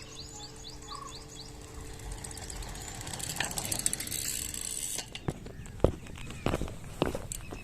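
Bicycle freewheel ratcheting with a fast, even clicking while the bike coasts, over rising road and wind noise. A bird chirps repeatedly in the first second, and several sharp knocks follow in the second half.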